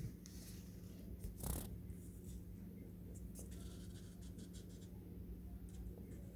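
A marker drawing on paper: faint scratchy strokes, with a quick run of short strokes in the middle.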